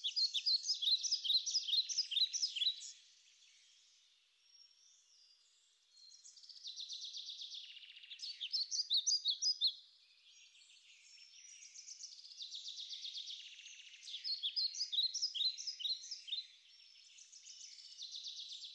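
A songbird singing in four phrases of rapid high chirps and trills, each a few seconds long, with short pauses between.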